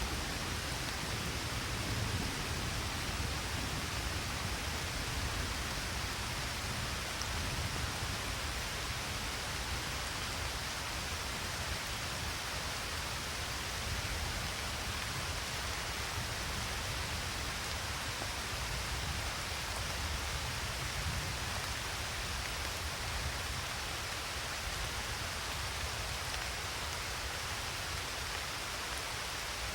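Steady rain pouring down, an even hiss of many drops with a low rumble underneath.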